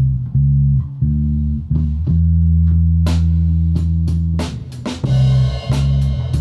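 Live rock band playing: electric bass holding long low notes under electric guitar, with the drums' cymbals coming in about three seconds in.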